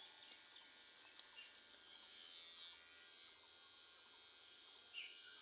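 Near silence: a faint steady hum with a few short, high, falling chirps, the clearest about five seconds in.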